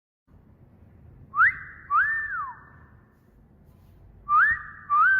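A wolf whistle repeated twice, about three seconds apart: each a short rising note followed by a longer note that rises, holds and swoops down, with a ringing echo trailing after.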